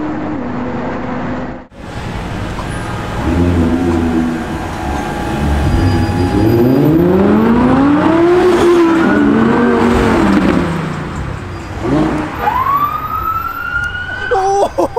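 Sports car engine revving hard, its pitch climbing for a few seconds to a peak and then falling back. Near the end a wailing tone rises, holds and bends down again.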